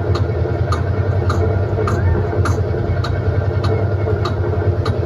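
Tractor engine running steadily, with a sharp, regular click a little under twice a second over it.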